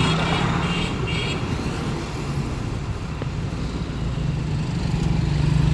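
A car engine running steadily in road traffic, with tyre and road noise, and a brief high-pitched tone in the first second or so.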